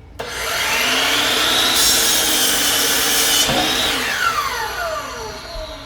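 Electric power saw spinning up, cutting wood with a harsher hiss for about a second and a half, then winding down with a falling whine.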